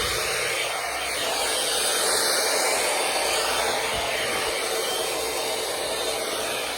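Hair dryer brush blowing steadily on its low setting, which runs at low heat and high fan speed.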